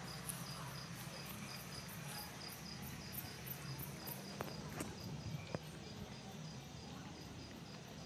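Insects chirping in an even rhythm, a short high chirp about three or four times a second, over a steady low hum, with a few sharp clicks near the middle.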